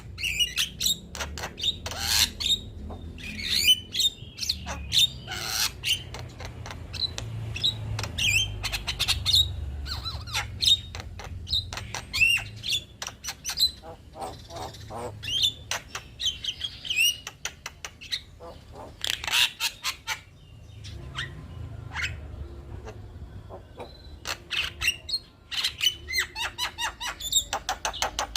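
Male Javan myna (jalak kebo) chattering song: a fast run of harsh squawks, clicks and short whistled notes, broken by brief pauses, over a low background rumble.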